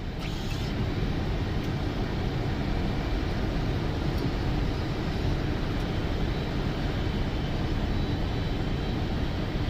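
Steady rushing cabin noise on a Boeing 747 flight deck during the approach: airflow and engine noise, with a faint high steady tone, fading in over the first second.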